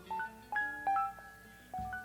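Instrumental music: a few single guitar notes picked one at a time, each left to ring, about four in all.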